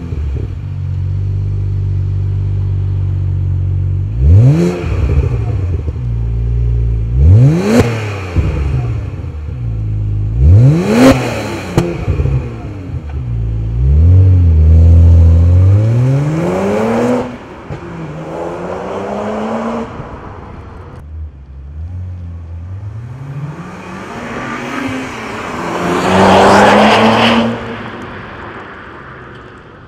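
BMW 1 Series M's twin-turbo 3.0-litre inline-six through a Magnaflow stainless-steel cat-back exhaust. It idles, gets three quick throttle blips each rising and falling, then a longer held rev. After that come two rising pulls under acceleration, the second the loudest, near the end.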